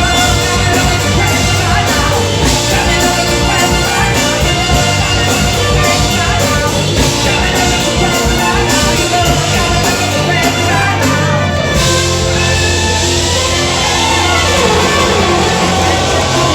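Live rock band playing loudly, with drum kit and guitars. About twelve seconds in the drums and cymbals drop out, leaving sustained bass and guitar notes.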